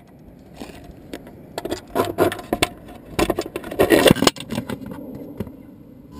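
Handling noise: a run of irregular clicks, knocks and scrapes of hard parts being handled, busiest and loudest in the middle, thinning out near the end.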